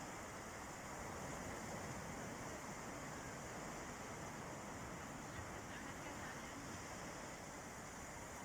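Sea waves washing on a beach, heard as a steady, even rush with no distinct breakers standing out.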